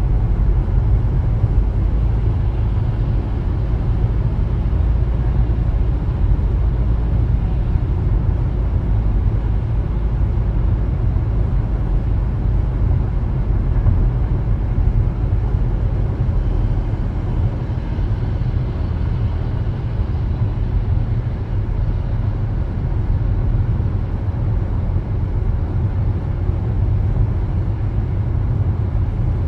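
A car being driven, a steady low rumble of road and engine noise with no sudden events.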